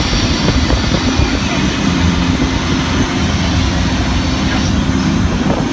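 Studio tour tram moving, a steady low rumble of its motor and wheels.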